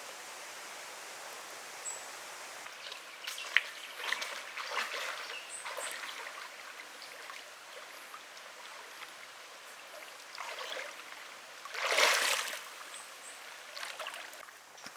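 Steady rushing of a flowing creek, with scattered small clicks and rustles and one louder rustle about twelve seconds in.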